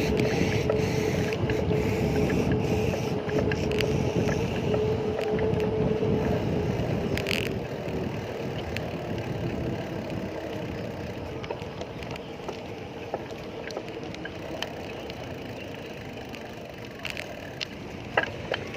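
Road and wind noise during a bicycle ride in traffic, with a steady motor-vehicle hum that fades away about midway. A few sharp clicks near the end.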